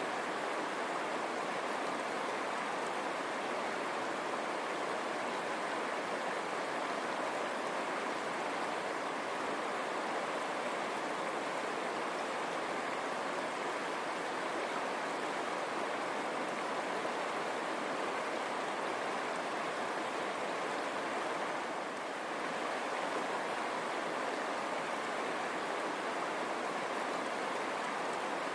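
River water rushing steadily over stones, a continuous even babbling flow.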